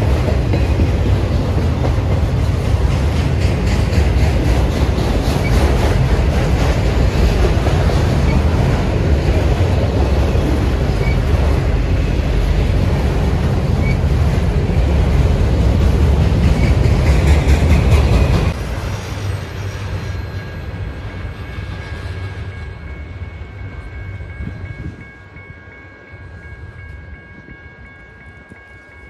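A train passing close by: a loud, steady rumble and clatter of wheels on rail. It cuts off abruptly about two-thirds of the way through as the end of the train goes by, then fades away, leaving a few steady high ringing tones.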